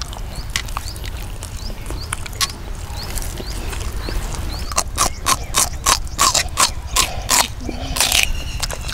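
Wet chewing and lip-smacking of a man eating rice and fried fish by hand, a run of smacks about two or three a second starting about halfway in.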